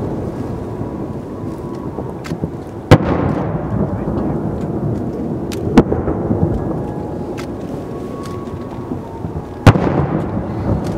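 Aerial firework shells bursting at a distance, each a sharp boom followed by a long rolling echo. Three main booms come about three seconds apart, with the loudest near the end and a few fainter pops between them.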